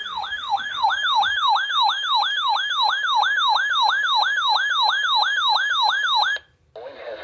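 Weather alert radio sounding its siren-style alarm for a severe thunderstorm warning: a falling electronic sweep repeated about three times a second. It cuts off abruptly near the end, and a fainter radio broadcast begins.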